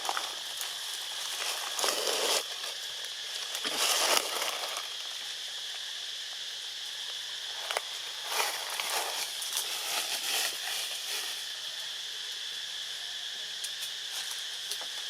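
Steady high-pitched drone of insects, with short rustling, crackling noises about two and four seconds in and several more between eight and eleven seconds.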